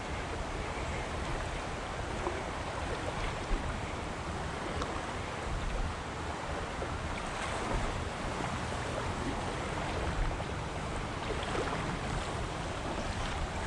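Steady rushing of river water, with some wind noise on the microphone.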